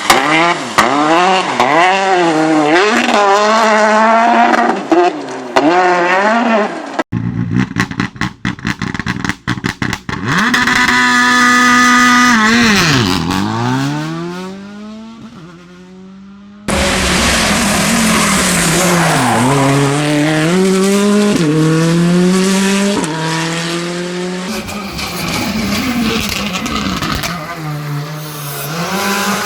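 R5 rally cars' turbocharged 1.6-litre four-cylinder engines revving hard past the roadside in several clips. Pitch rises and falls with gear changes and lifts, there is a burst of sharp crackles about seven seconds in, and one car's note falls and fades as it goes by. Tyre squeal is mixed in.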